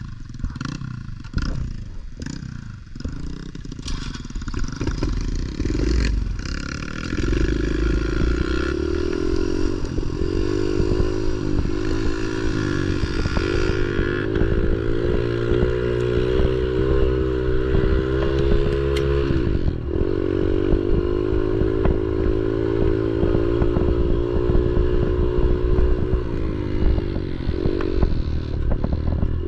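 Pit bike engine being ridden: uneven, clattering running for the first several seconds, then a steady engine note whose pitch rises and falls with the throttle. It drops off sharply about two-thirds of the way through, then picks up again.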